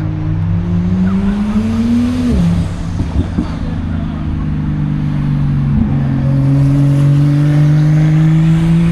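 A car engine accelerating: its pitch rises for about two seconds, drops sharply at a gear change, then climbs slowly and steadily again.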